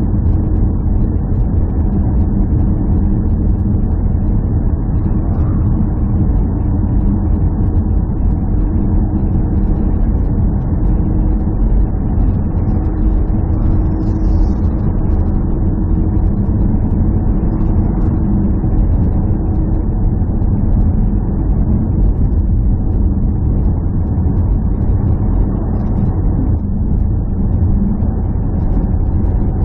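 Steady low rumble of a running vehicle engine, unchanging in level, with a faint steady hum in it.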